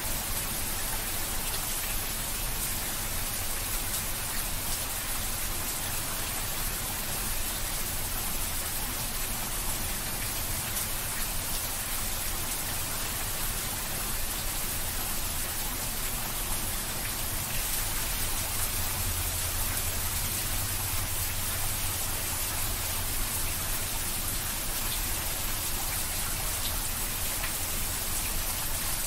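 Heavy rain falling steadily, an even hiss of drops splashing on wet ground.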